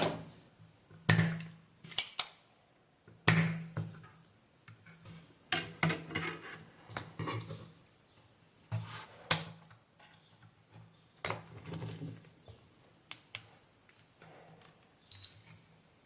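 Scattered sharp clicks and taps of small hand tools on a circuit board and workbench, a dozen or so with short quiet gaps, as a rectifier diode is lifted from the board to be tested.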